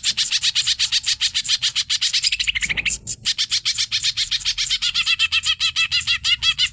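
Green leafbird (cucak ijo) singing a fast, unbroken run of chirping notes, about ten a second, broken only by a short rising note and a brief pause about three seconds in.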